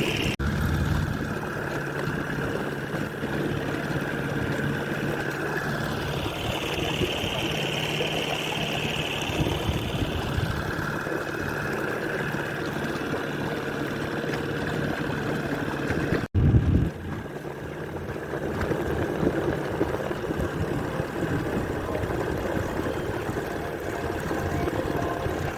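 Boat motor running steadily, with a drone and a higher whine whose pitch shifts now and then. The sound cuts out sharply for a moment about half a second in and again about sixteen seconds in.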